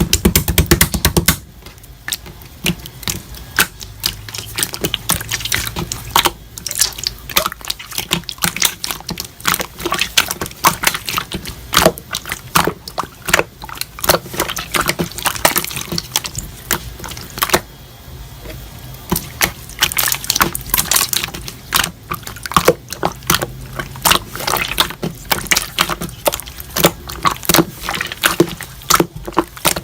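Slime being squeezed and poked by hand, making a stream of irregular wet clicks and pops.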